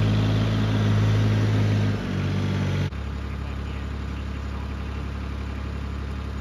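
Rural King RK19 compact tractor engine running steady at a raised speed. About two seconds in it steps down, then just under three seconds in it drops sharply to a steady idle.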